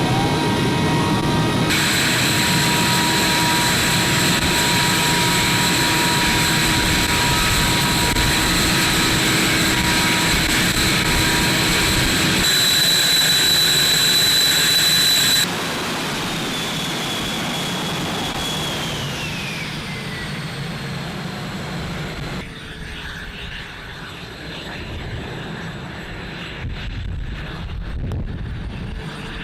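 Fighter jet engines running: a loud rumble with high steady whines that changes abruptly several times between clips. Partway through, a whine falls in pitch, and near the end the sound turns quieter and more like wind.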